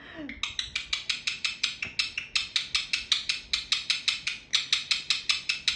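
Indian ringneck parakeet giving a loud, rapid series of short shrill screeches, about seven a second and kept up for several seconds.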